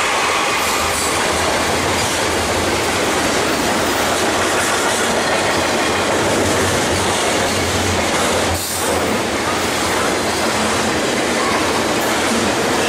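Double-stack container freight train passing: a steady, loud rumble of steel wheels on rail, with faint high wheel squeal now and then.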